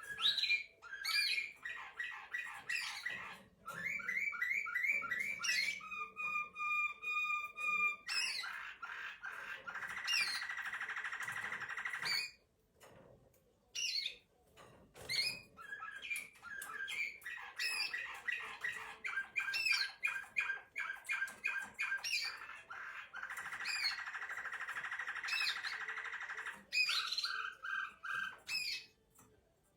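Serbian Slavujar canary singing its nightingale-like song in a long run of varied phrases: quick repeated notes, a steady held whistle about six seconds in, and long fast trills, with a short break near the middle.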